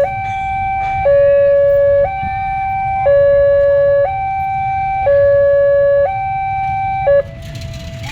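Railway level-crossing warning alarm sounding a two-tone hi-lo signal, the high and low notes alternating about once a second, cutting off about seven seconds in. A low rumble of traffic runs underneath.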